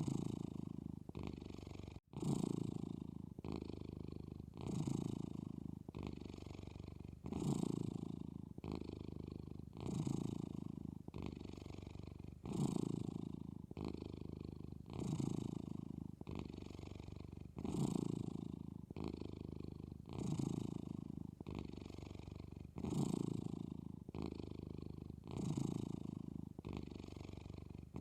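A young Maine Coon cat purring while she dozes. The purr swells and eases with each breath, about one breath every two and a half seconds. There is a split-second dropout about two seconds in.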